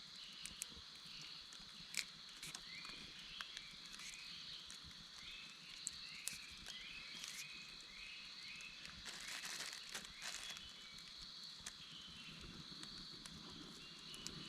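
Faint forest ambience: a steady high insect drone, a bird repeating a short call note about twice a second through the middle, and scattered small clicks and rustles of leaves and twigs.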